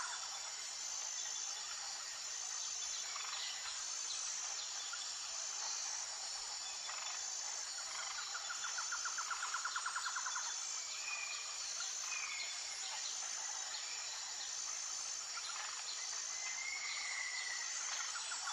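Outdoor nature ambience: a steady high-pitched insect chorus, with a rapid pulsed trill about halfway through and a few short chirps from birds or frogs.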